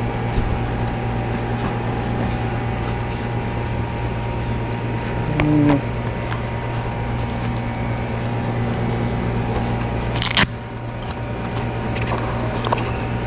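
A steady low mechanical hum with a faint higher whine, a brief low tone a little past the middle, and a sharp click about ten seconds in.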